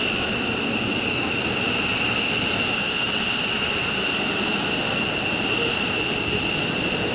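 F-15 fighter's twin turbofan jet engines running steadily: a high, unchanging turbine whine in several tones over a broad rush of exhaust.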